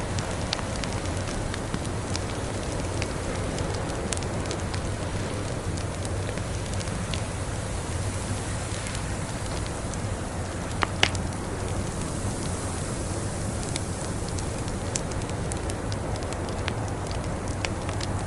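Wood fire in a fireplace crackling, with scattered small snaps over a steady rushing background and a pair of louder pops about eleven seconds in.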